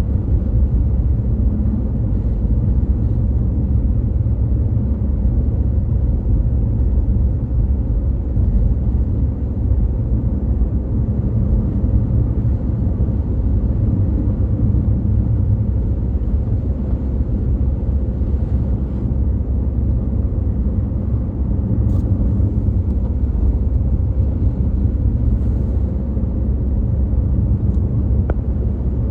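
A car driving steadily, its engine and tyres making a continuous low rumble that barely changes.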